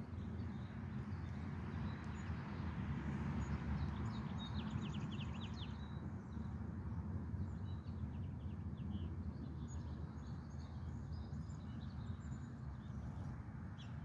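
Small birds chirping outdoors, with a quick run of chirps about four to five seconds in and scattered single chirps later, over a steady low rumble of background noise.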